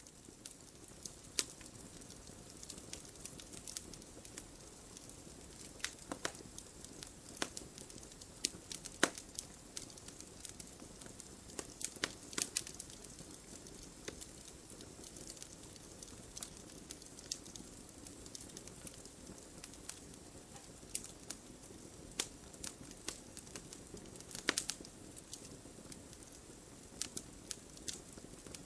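Wood fire burning in a fireplace: burning logs crackling and popping irregularly over a soft steady hiss, with a few louder pops.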